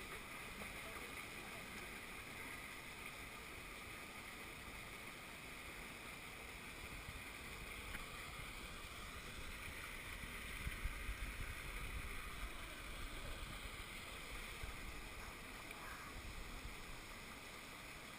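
Steady rush of running stream water, with low rumbling buffets on the microphone about ten seconds in.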